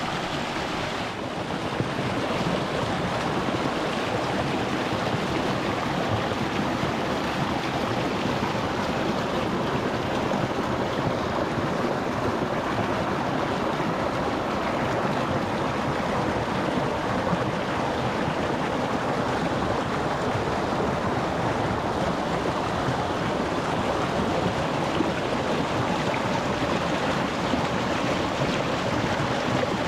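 Shallow rocky stream running over stones, a steady rush of flowing water that turns slightly louder about two seconds in.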